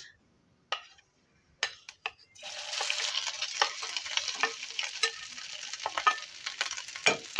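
A few light clicks, then from about two and a half seconds in, hot oil with cumin seeds sizzling steadily as grated boiled potato is dropped into the frying pan. A spatula scrapes and taps against the bowl as it is emptied.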